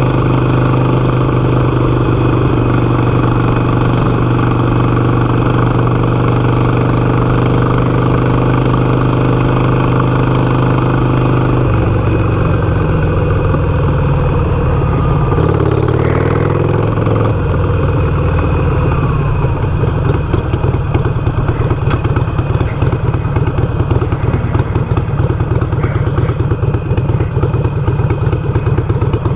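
Harley-Davidson Iron 883's air-cooled V-twin engine holding a steady speed on the road. About twelve seconds in its pitch drops as the bike slows, and from about nineteen seconds it settles into a loping, pulsing idle.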